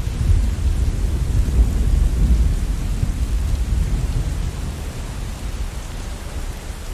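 Steady rain falling, with a low rumble of thunder that gradually dies away.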